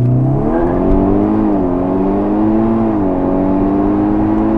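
Tuned VW Golf 6 R turbocharged four-cylinder accelerating hard from a launch-control start: revs held steady for about half a second, then climbing, with two quick DSG upshifts that drop the pitch about a second and a half apart.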